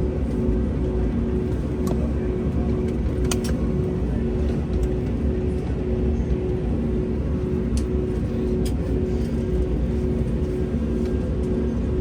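Steady low rumble of a vehicle's interior with a constant two-tone hum, and a few faint clicks.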